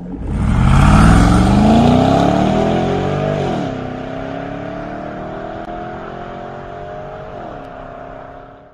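Car engine accelerating hard from a standstill, its pitch climbing and then dropping at a gear change about three and a half seconds in. It climbs again, with a second shift near the end, while the sound fades as the car draws away, then cuts off suddenly.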